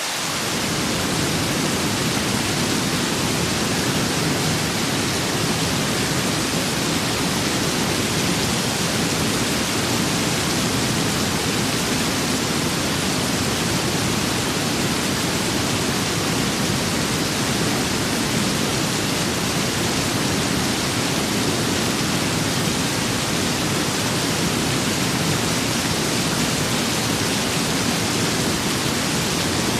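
Steady rain with wind, an even hiss with a low rushing layer that comes in right at the start.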